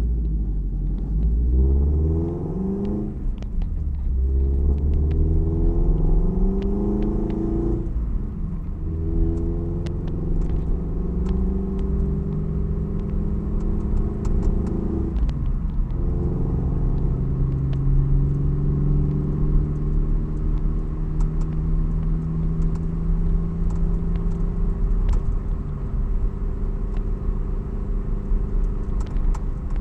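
Toyota 86's FA20 flat-four boxer engine and aftermarket exhaust with unequal-length headers, giving a boxer rumble. The engine pulls up through the gears, with its pitch dropping at upshifts about 3, 8 and 15 seconds in, then settles to a steady cruise.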